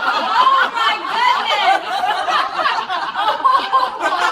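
People laughing hard in chuckles and snickers, with bits of voice mixed in.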